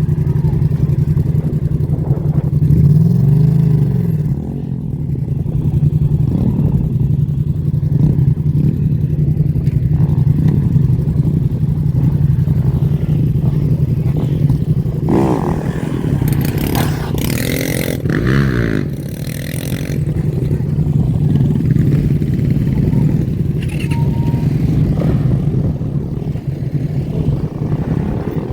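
Motorbike and dirt-bike engines revving and passing, over a steady low drone. The loudest stretch of revving comes about halfway through.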